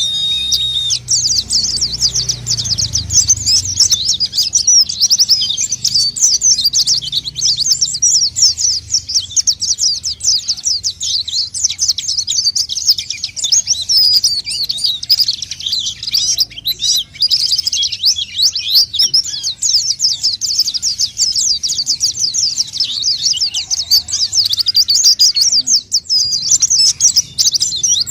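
White-eye (pleci) song used as a lure call: a fast, continuous, high twittering stream of chirps with no pauses.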